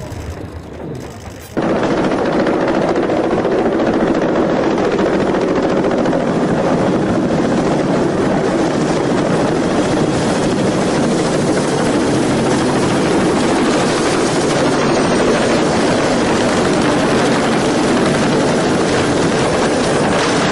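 Helicopter engine and rotor running loudly and steadily. The sound cuts in abruptly about a second and a half in.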